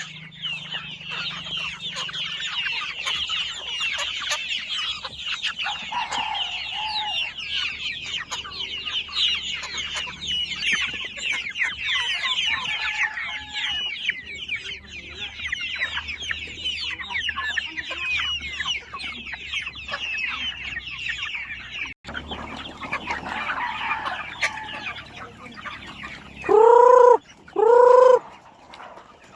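A flock of heritage chickens clucking and peeping, many birds calling at once in a dense, continuous chatter. Near the end, two loud, drawn-out calls about a second apart stand out.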